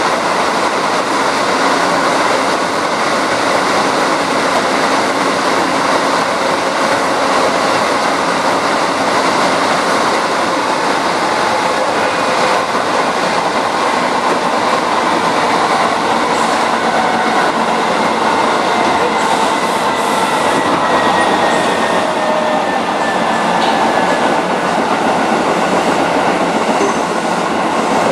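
Running noise heard inside a Hokuso 7260-series electric train car (a resistance-controlled, TD parallel cardan-drive commuter EMU) at speed: a loud, steady rumble of wheels on rail and running gear. In the second half a faint tone slowly falls in pitch.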